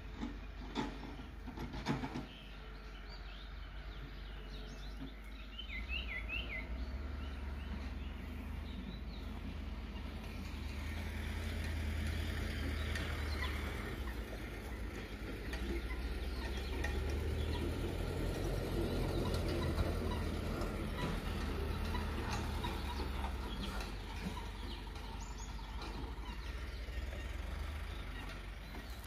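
Heavy earthmoving machine's engine running steadily with a low rumble, growing louder about ten seconds in, with a couple of sharp knocks near the start. A bird chirps briefly about six seconds in.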